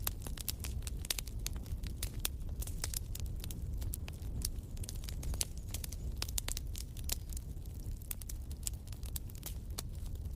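Wood fire crackling in a fireplace: many irregular sharp snaps and pops over a steady low rumble of the burning fire.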